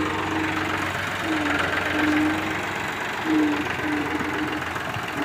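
Tractor engine running steadily with a rapid knocking beat, and a humming tone that cuts out and comes back several times.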